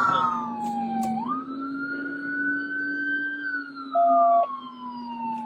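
Police car siren on a slow wail, its pitch sliding down, jumping back up about a second in, holding and then sliding slowly down again, over a steady low hum. About four seconds in a short steady tone sounds for half a second, the loudest moment.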